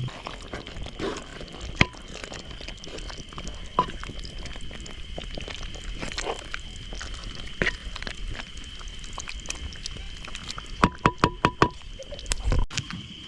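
Scattered sharp clicks and knocks over a steady high chirring of insects, with a quick run of about six knocks near the end and a low thump just after them.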